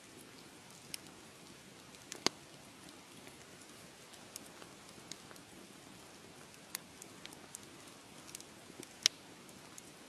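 Wood fire crackling: a steady low hiss with irregular sharp pops and snaps, the two loudest about two seconds in and near the end.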